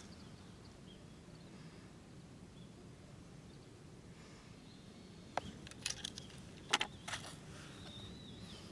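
A few short, light clicks and knocks from a chainsaw being handled while its engine is not yet running: one sharp click at the start, then a cluster of clicks about five to seven seconds in.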